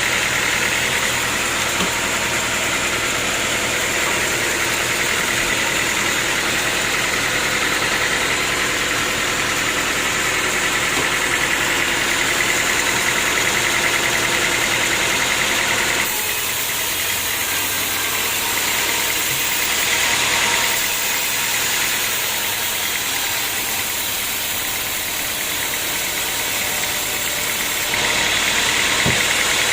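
Sawmill machinery running steadily with a mechanical hum and a high steady whine. The sound changes abruptly twice: it drops a little about halfway through and comes back louder near the end.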